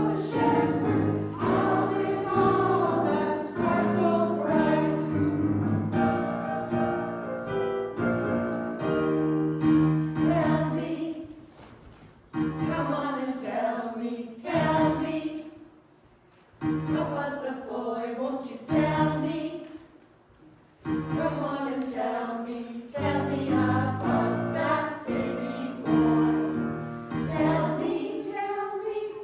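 Women's choir of soprano and alto voices singing in harmony with piano accompaniment. The phrases break off three times for a moment about halfway through.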